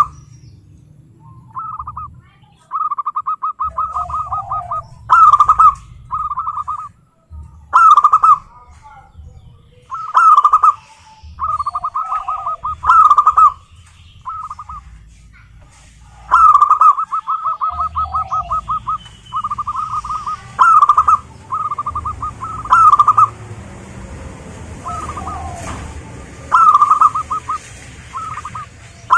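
Zebra doves cooing: phrase after phrase of quick staccato notes, each closing on louder accented coos, with short gaps between.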